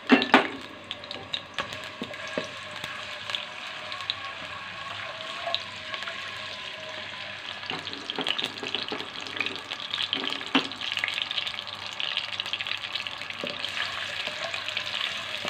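Ginger-garlic paste frying in hot oil in a pot. There is a loud burst of sizzling just after the start as the paste goes in, then steady sizzling. A slotted spatula stirring the paste adds occasional knocks and scrapes.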